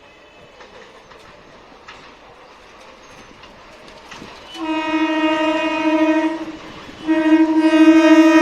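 Suburban electric local train's horn sounding two long blasts on one steady pitch: the first starts about four and a half seconds in and lasts nearly two seconds, the second follows after a short break and is held. Before the horn there is only a faint background rumble.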